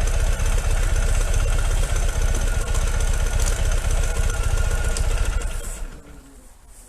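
Ural motorcycle's boxer-twin engine idling steadily, then stopping almost six seconds in.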